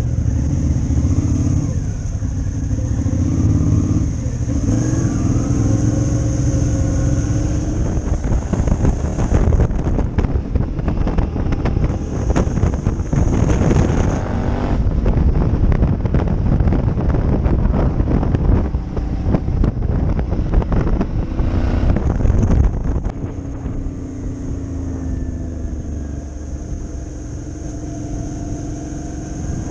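Motorcycle engine running on the move, its pitch rising and falling with throttle and gear changes, with heavy wind rush on the microphone through the middle. It goes quieter and steadier after about two thirds of the way through.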